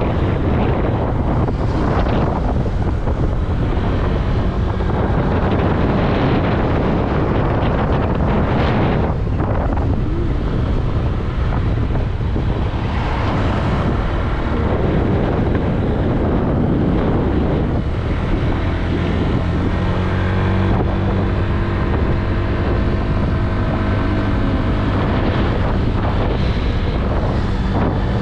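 Wind rushing over the microphone of a moving Honda Click 125i scooter, with the single-cylinder engine's steady hum beneath it.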